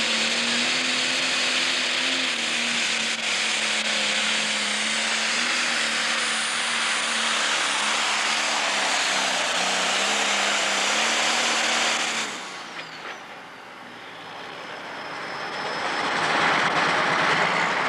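Pro stock pulling tractor's diesel engine running at full power while pulling the sled, loud and steady with its pitch wavering slightly, then shut off abruptly about twelve seconds in. A rising wash of noise follows near the end.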